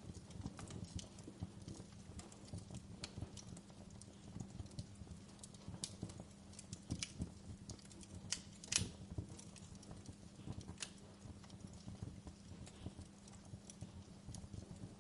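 Wood fire burning, crackling with irregular small pops and snaps over a low steady rumble, with one louder pop a little before halfway through.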